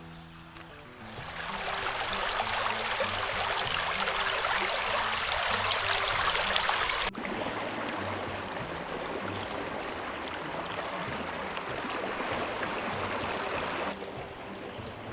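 Creek water rushing over small cascades, rising in from about a second in. A sudden cut about halfway through switches to a second, slightly quieter stretch of rushing water, which drops again in level near the end. Soft background music plays underneath.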